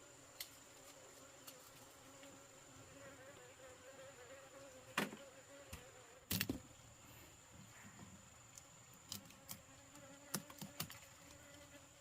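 Insects buzzing steadily with a thin high drone, and scattered sharp clicks and knocks, the loudest about five and six and a half seconds in.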